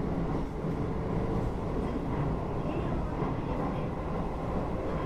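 Running noise inside a Keio 8000 series electric train car, heard above its Hitachi GTO-VVVF main controller: a steady rumble of wheels and running gear, with faint steady motor and inverter tones over it.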